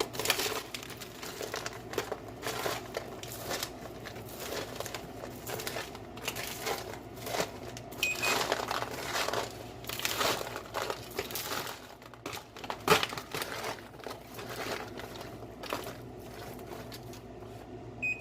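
Baked, sugar-coated popcorn being stirred and turned over on a baking sheet, a dry crinkling rustle in irregular strokes as the kernels shift. A short electronic beep sounds about 8 seconds in and again at the very end.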